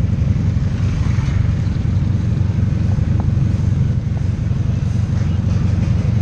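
Motorcycle running steadily on the move, a constant low rumble with no changes in revs.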